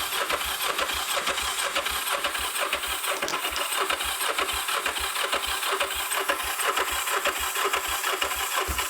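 Kawasaki GPZ500S water-cooled two-cylinder engine being turned over on its electric starter, cranking steadily with a rhythmic churn but not catching. The battery sounds a little limp, as the owner judges it.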